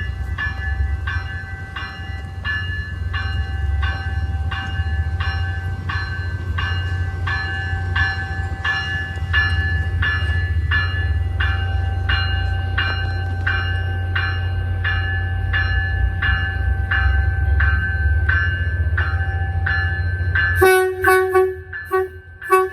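A railroad crossing bell rings about twice a second over the steady low rumble of a train's diesel locomotive. Near the end the rumble cuts off abruptly and a few short, sharp tonal sounds follow.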